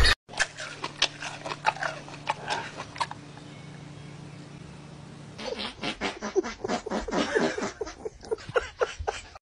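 Rapid series of sharp knocks or slaps in two runs, the second starting about halfway through, over a steady low hum.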